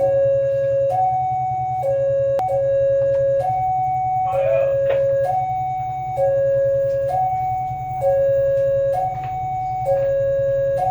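Two-tone hi-lo warning alarm, a lower and a higher tone taking turns about once a second, over a steady low rumble.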